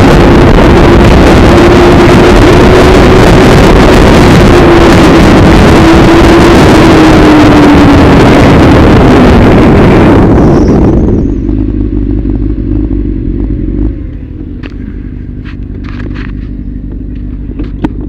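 Loud, steady road and wind rush from a moving vehicle, with one engine tone that drops in pitch as it slows. About ten seconds in, this gives way to a much quieter, steady engine hum with a few light ticks.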